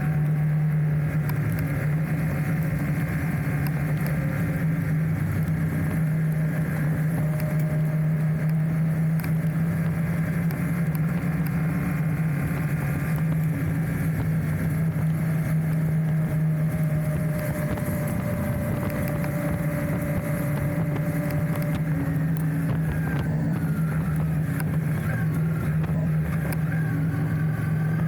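Enduro motorcycle engine running at a steady speed while riding. Its note dips briefly a little past halfway, then steadies again, and a few rising and falling tones come near the end.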